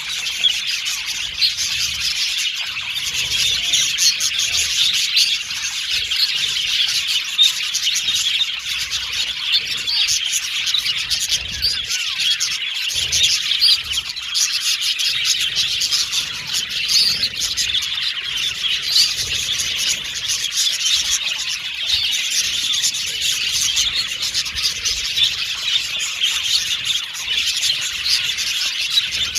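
A flock of budgerigars chirping and chattering together, a dense, continuous mix of overlapping tweets and warbles.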